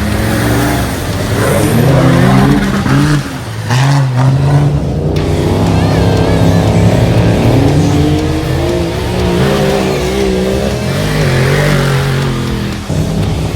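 Off-road race car engine revving hard, its pitch rising and falling with throttle and gear changes, with brief drops a few seconds in and near the end.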